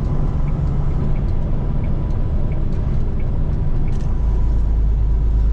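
Freightliner FLD120's Cat 3406E inline-six diesel running steadily under load as the truck drives, with a dense low rumble and road noise; about four seconds in the lowest rumble grows louder.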